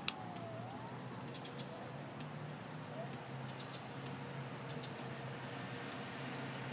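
A sharp click just after the start, then faint bird chirps in three short bursts over a steady low hum.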